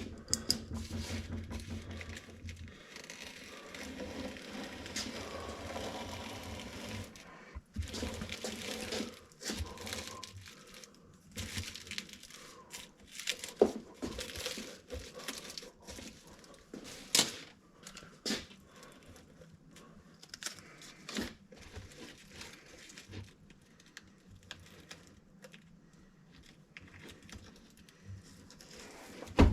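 Masking tape being pulled off the roll, torn and pressed down onto a car door panel's plastic, in irregular stretches of tearing and crinkling with scattered sharp clicks.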